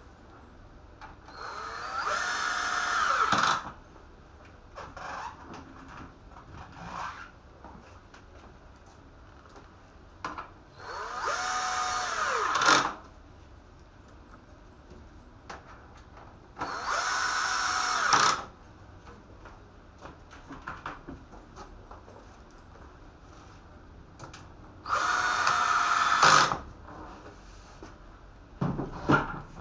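Small electric power driver run in four short bursts of about two seconds each, each spinning up and winding down, with small clicks and handling knocks in between.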